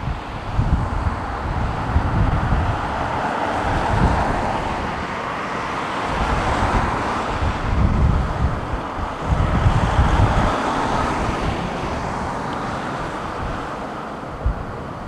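Boeing wide-body jet airliner passing close by, a broad engine roar with a hissing whine that swells, peaks and slowly fades, with wind buffeting the microphone.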